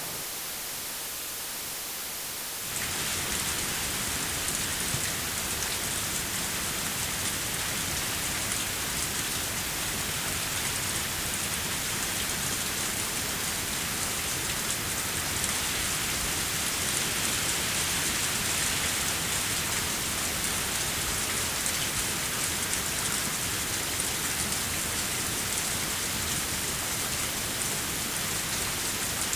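Steady, dense rainfall. It comes in suddenly about three seconds in, after a short, fainter hiss.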